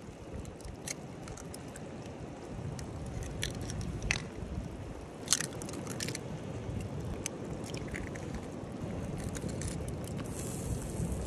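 Sausage slices and eggs in tomato sauce sizzling and bubbling in a pan over a fire, with scattered sharp pops and crackles and a brighter hiss near the end.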